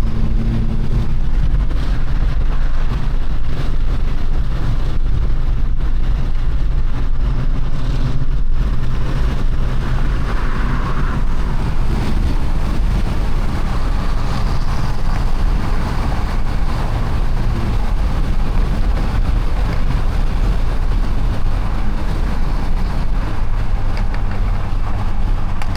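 Car engine running at a steady, low drone with a constant wash of noise, as from a vehicle cruising.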